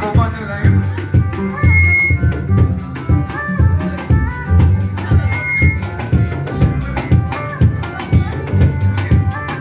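Upbeat band music: a drum kit playing a steady rhythm under bass and pitched instrumental lines.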